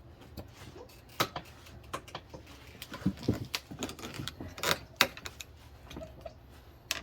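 Scattered metal clicks and knocks of tire tools against a manual tire changer and wheel rim while a tire bead that is stuck is being worked loose.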